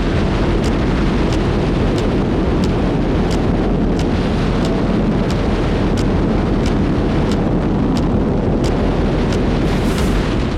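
Steady rush of wind on a motorcycle rider's camera at high speed, with faint regular ticks about every two-thirds of a second.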